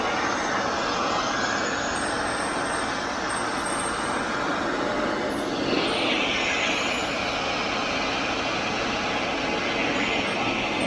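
A torch flame burning steadily as it scorches the grain of the wooden truck-bed boards. Its hiss gets brighter about six seconds in.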